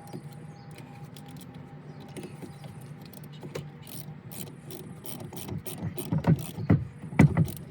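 Socket ratchet wrench tightening the battery's positive terminal clamp nut, clicking in short runs that grow louder toward the end, over a steady low hum.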